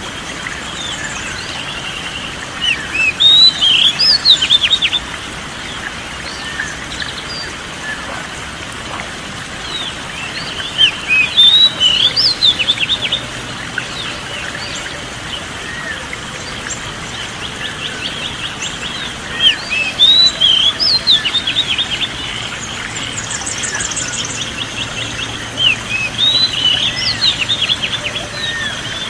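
Oriental magpie-robin (kacer) singing in loud phrases of quick, rising and falling whistled notes: four bursts, each a few seconds long, about every eight seconds. Under them runs a steady background of fainter bird chirping.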